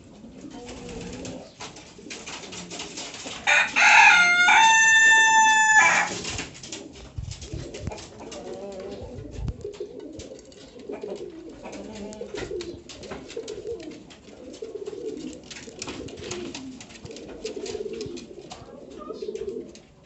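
Domestic pigeons cooing steadily in low, rolling calls. About three and a half seconds in, a much louder drawn-out call breaks in: it bends in pitch at first, then holds level for about two seconds and stops.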